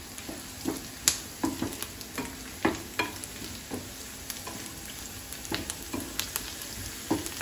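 Onion, garlic and chillies sizzling in hot ghee in a frying pan, the tempering (tadka) for kadi, stirred with a wooden spatula that scrapes and knocks against the pan about once or twice a second.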